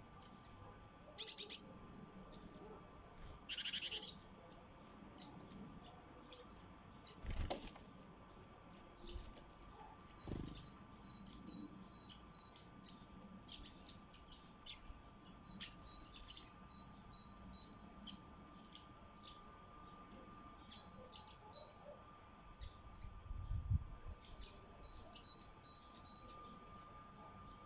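Sparrows at a feeder giving many short chirps, with a few flurries of wing flaps early on and a couple of knocks about a third of the way in.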